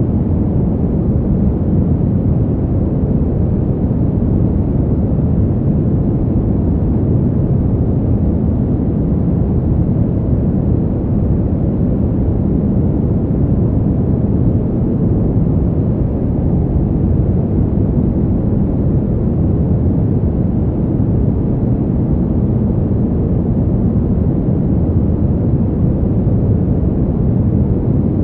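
Steady, deep winter wind noise, an even low rumble with no gusts or separate sounds.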